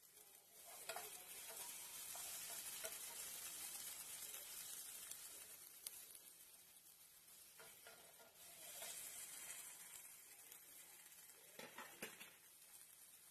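Onion, bell pepper strips and garlic sizzling quietly in oil in a nonstick frying pan, stirred with a wooden spatula. The sizzle swells twice as the vegetables are turned, with short scrapes of the spatula about a second in, near the middle and near the end.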